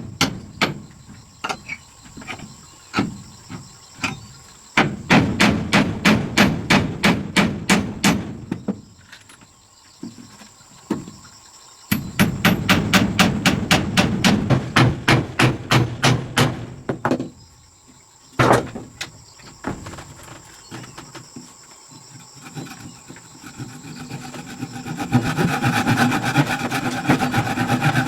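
Hammer blows in quick runs of about three to four strikes a second, separated by pauses and a few single strikes. Near the end comes a faster, denser run of lighter strokes.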